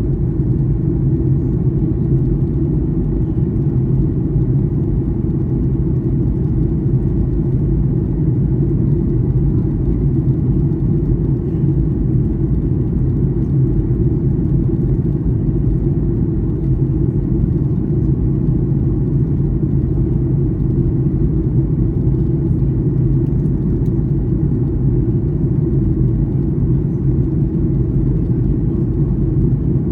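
Steady cabin drone of a Boeing 737-800 in flight: its CFM56 turbofan engines and the airflow over the fuselage make an even, unbroken low rumble.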